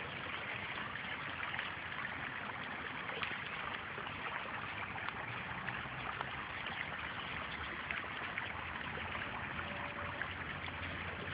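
A stream flowing over rocks, with a steady, even sound of running water.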